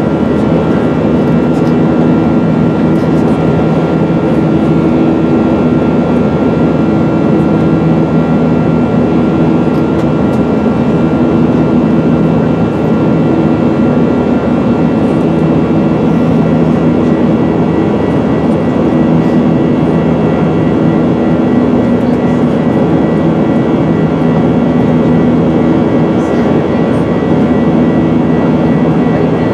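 Boeing 737-900ER's CFM56 jet engines and rushing air heard steadily from inside the cabin: a loud, even roar with a low hum and a couple of faint constant whining tones.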